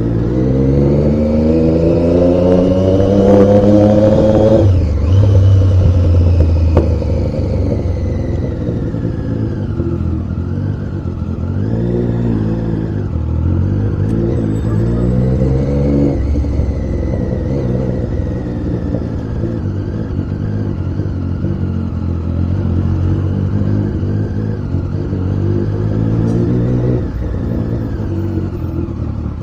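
Triumph Daytona 675's three-cylinder engine under way, revving up with rising pitch for about four seconds before dropping sharply. It climbs again in the middle and drops suddenly once more, running steadier in between.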